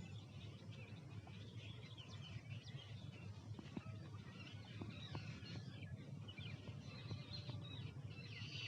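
Faint birds chirping over a steady low rumble.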